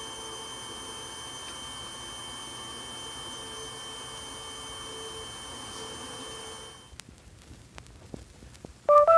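A steady hum of several held tones that cuts off about seven seconds in, followed by a few faint clicks and then keyboard music notes starting near the end.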